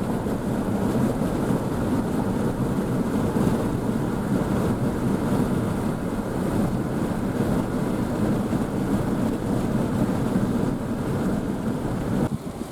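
Strong, gusty wind from a thunderstorm outflow (gust front) buffeting the microphone in a steady, fluttering rush. Near the end it turns choppy and uneven.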